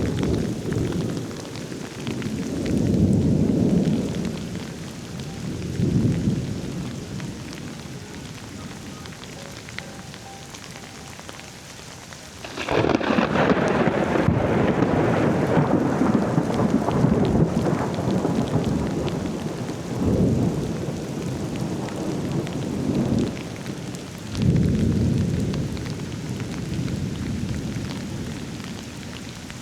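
Thunder rolling over steady, heavy rain. Several deep rumbles swell and fade, and about a third of the way in a much louder clap breaks into a long rumble lasting several seconds before further rolls die away.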